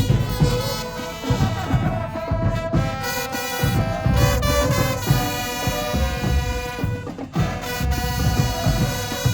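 High school marching band playing: brass section sustaining chords over heavy bass drum and percussion hits, with a brief break about seven seconds in before the full band comes back.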